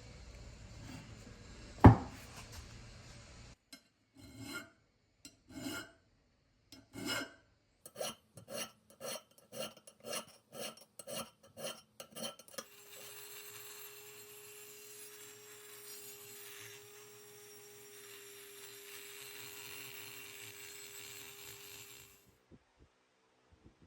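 A single sharp knock, then a run of short rasping hand strokes of a file or abrasive on a part, speeding up to about two strokes a second. Then a steady hiss with a low hum for several seconds that cuts off near the end.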